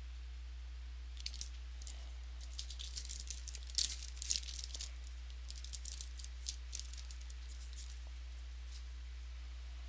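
Crinkling and crackling of a foil trading-card pack wrapper and cards being handled, in a cluster of sharp crackles lasting a few seconds, over a steady low electrical hum.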